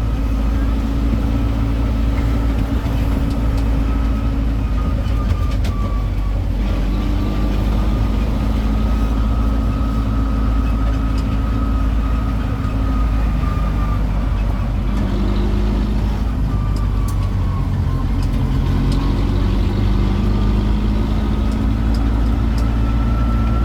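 Tourist road train's engine running as it drives, its pitch stepping up and down with speed, with a faint steady whine over it.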